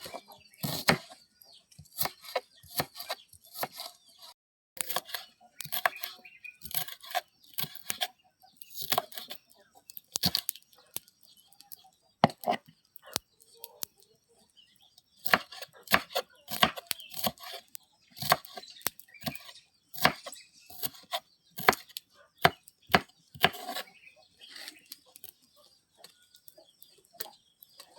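A knife chopping vegetables: irregular sharp strokes, often one or two a second, with short pauses, thinning out over the last few seconds.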